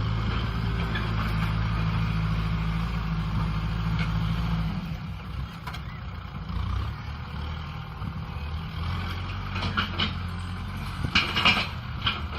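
Kubota M6040 SU tractor's diesel engine running steadily under load while ploughing; its note shifts and drops about five seconds in. A few sharp knocks and rattles come near the end.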